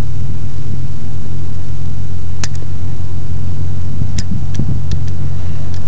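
Steady, loud low rumble, like an idling engine, with a few short sharp clicks about two and a half and four seconds in. No rocket motor is heard firing: the model rocket misfired.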